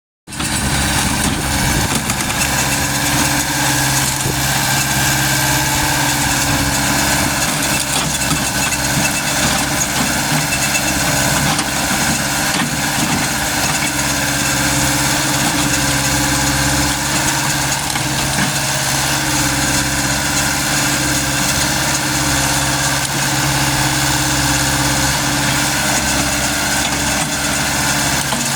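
Diesel engine of a Caterpillar 120 excavator running steadily at constant speed.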